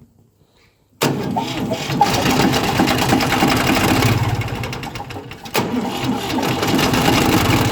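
An engine cold-starting: it catches abruptly about a second in and keeps running loudly, sagging briefly about halfway through before picking up again.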